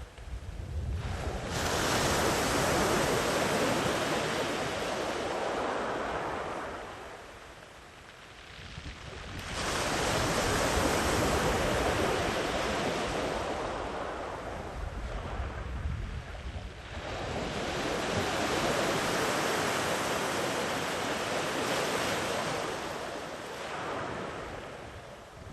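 Sea waves breaking and washing up a sandy beach in three slow surges, each swelling to a rushing hiss for several seconds and then falling away before the next.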